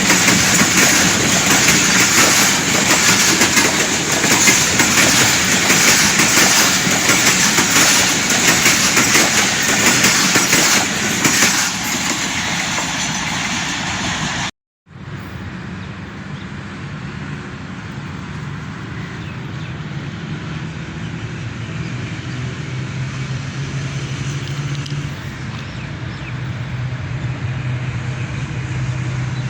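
A diesel locomotive-hauled train passing at speed: loud rushing and rail clatter that stops abruptly about halfway. Then comes a quieter passage in which a low steady diesel engine drone grows louder toward the end.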